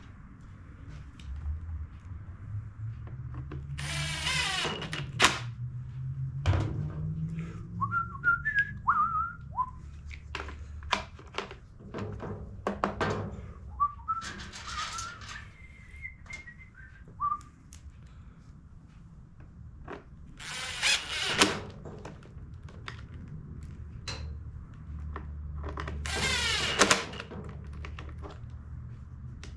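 Four short runs of a power screwdriver driving screws into a plastic blower housing, among clicks and knocks from handling tools and parts. A person whistles a few wavering notes in between.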